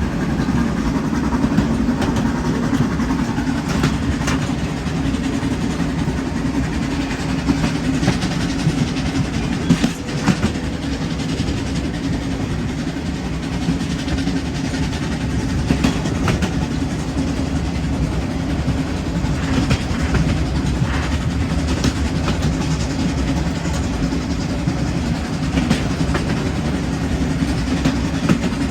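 Harz narrow-gauge steam train running up a steep grade. A steady rumble is broken by scattered, irregular clicks and knocks from the wheels on the rails.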